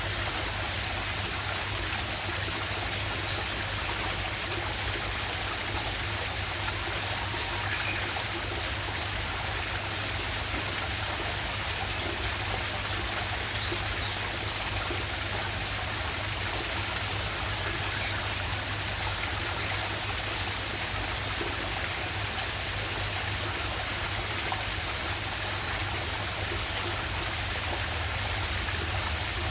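River waterfall: a steady, unbroken rush of falling and flowing water.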